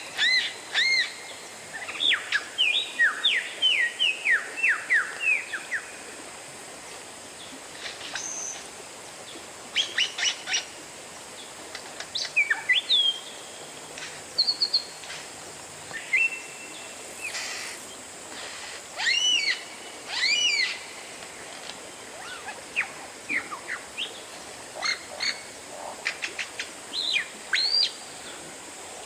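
Oriental magpie-robin singing: phrases of clear, varied whistles and quick up-and-down glides, delivered in bursts with short pauses between them.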